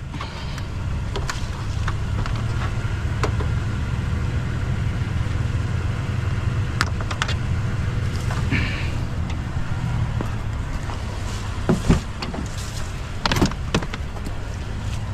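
A motor vehicle running steadily, with a few sharp knocks and clicks: two close together about twelve seconds in and another a second or so later.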